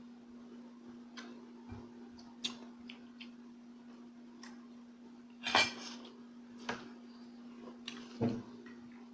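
Eating sounds close to the microphone: scattered small clicks and clinks of cutlery and dishes, with two louder bursts about five and a half and eight seconds in, over a steady low hum.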